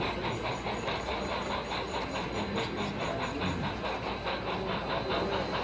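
Model train running on a layout, with a rapid, even rhythmic clatter of about five beats a second.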